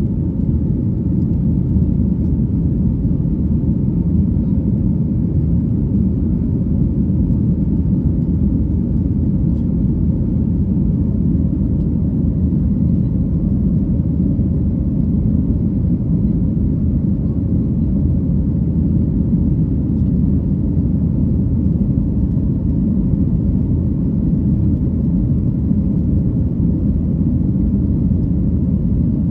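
Airliner cabin noise: a steady low rumble from the engines and the airflow, with no change across the stretch.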